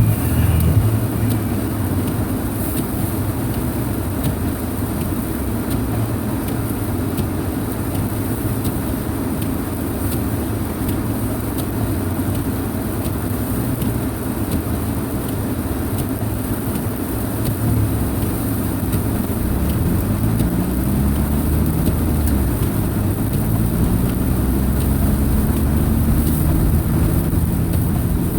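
A 2002 Subaru Impreza wagon's EJ25 2.5-litre flat-four engine running as the car drives, under a steady wash of road noise. In the second half the engine pitch rises several times as the car accelerates.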